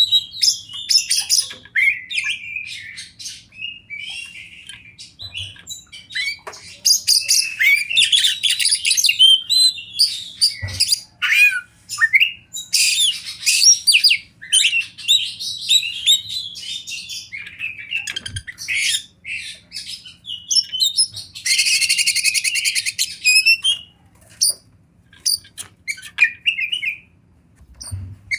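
Oriental magpie-robin singing a long, varied song of quick whistles and chirps, with a harsh buzzing churr lasting about two seconds roughly three-quarters of the way through.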